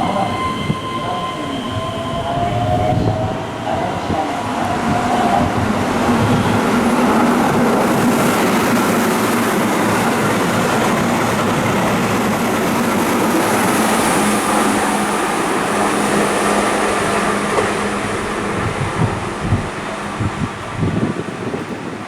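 Keihan electric train running past on curved elevated track: a loud, steady rolling noise with a held humming tone that swells and then eases off. Irregular knocks from the wheels come in the last few seconds.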